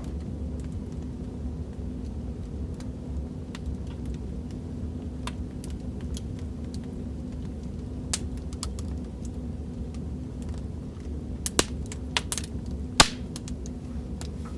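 Fireplace crackling: a steady low rumble of burning wood under scattered sharp pops and crackles, with a few louder pops near the end.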